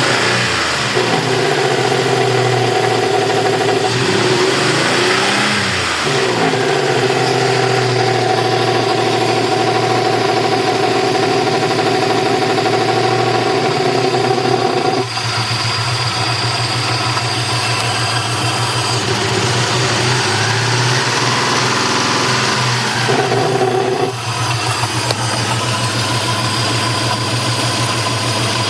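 1995 Toyota 4Runner's 3VZ-E V6 engine running with a loud, throaty note in the engine bay, the revs rising and falling twice and the tone changing abruptly about halfway through. The owner traced the noise to the PAIR valve's exhaust pulses echoing into an aftermarket air intake box with no resonator, made worse by two shorted spark plugs on cylinders 3 and 5.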